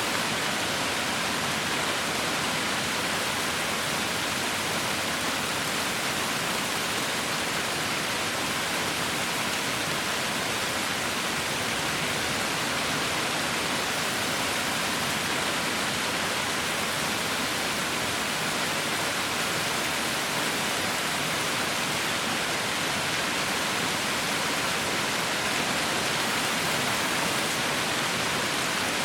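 Heavy rain falling in a steady, dense hiss, with no individual drops or thunder standing out.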